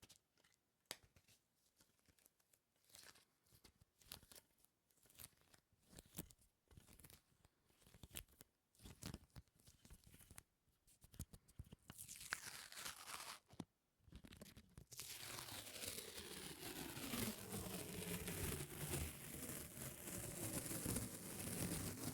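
Sticky surfaces peeling apart close to the microphone: scattered small crackles and clicks at first, then a little over halfway in a dense, continuous crackling tear that carries on.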